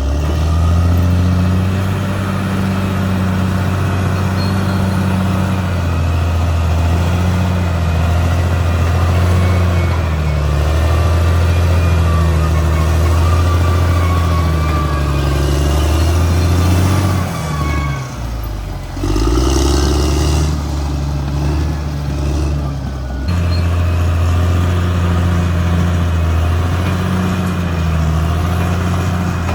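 Caterpillar D6R XL bulldozer's diesel engine running under load, a steady low drone whose pitch rises and falls as the machine works. The engine note dips briefly about eighteen seconds in.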